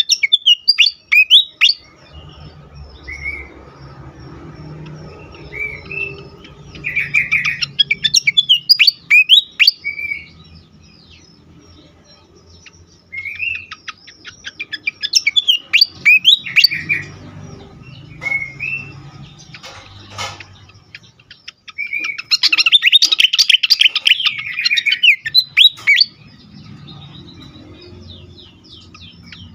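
Fantail (sikatan kipas) singing agitatedly in repeated outbursts of rapid chirps and short whistled phrases, with pauses between them. A faint low hum sits underneath.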